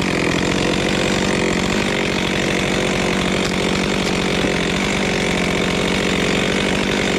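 Chainsaw running steadily at a constant pitch, cutting into a tree stump that still has dirt on it, which wears the chain.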